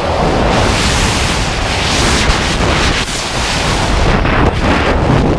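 Wind noise from a skydive: a loud, steady rush of air buffeting the microphone.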